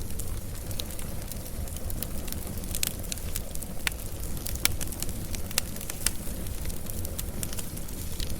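Wood fire crackling, with a steady low rumble beneath many sharp pops and snaps; a few louder pops stand out about halfway through.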